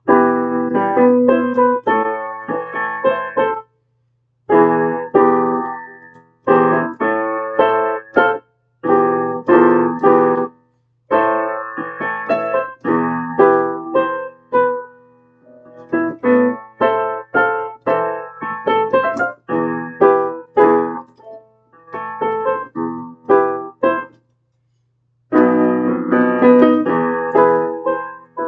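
Piano-voiced keyboard playing chords in short phrases, stopping and starting every few seconds.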